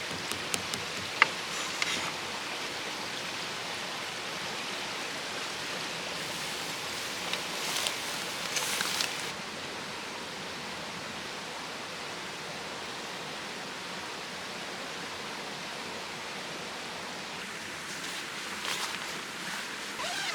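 Steady rushing of a stream flowing, with a few light clicks in the first two seconds.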